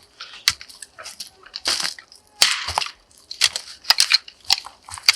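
Dry sticks and twigs crunching and cracking: an irregular string of sharp snaps and crunches, several each second.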